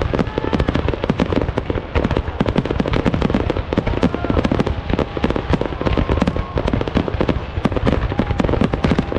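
Fireworks display going off in a dense, continuous barrage of rapid bangs and crackles, dozens of reports overlapping with no pause.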